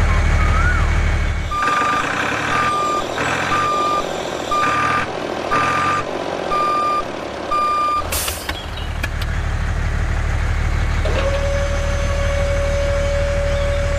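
Truck reversing alarm beeping about seven times at one steady pitch over a low steady hum. A sharp short burst comes just after the beeps stop, and a steady tone starts near the end.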